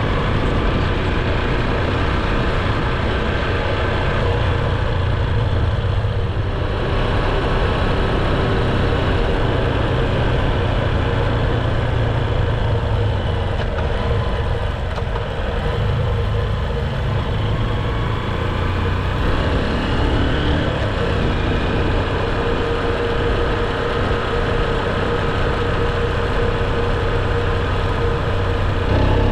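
A motor vehicle running steadily, a low engine and road-type rumble with no breaks.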